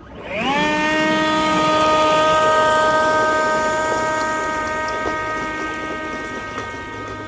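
Leaf blower throttled up: its whine rises in pitch over the first second, then holds at a steady high pitch and slowly gets fainter toward the end.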